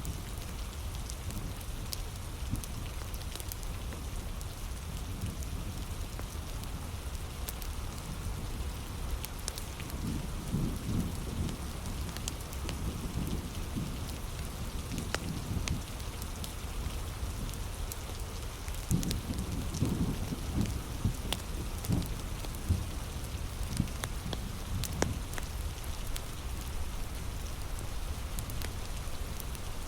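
Heavy rain falling steadily, with scattered sharp crackles from a nearby fire and low rumbling swells about ten and twenty seconds in.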